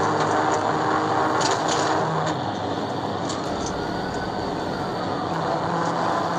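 Police cruiser driving at highway speed during a pursuit: steady engine and road noise.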